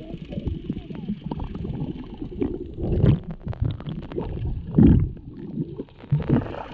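Muffled water sloshing and gurgling around the camera, with louder surges about three and five seconds in.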